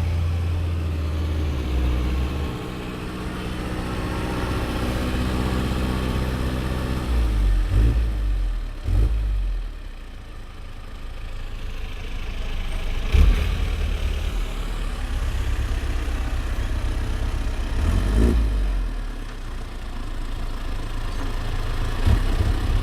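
A heavy vehicle's engine running steadily, its pitch dropping about seven seconds in, with several short knocks along the way.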